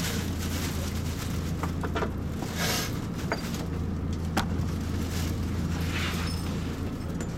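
Electric train heard from the cab at its final stop: a steady low hum, a few sharp clicks and two short hisses of air.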